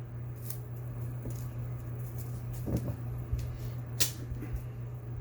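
Small clicks and taps of parts being handled, with one sharp click about four seconds in, over a steady low hum.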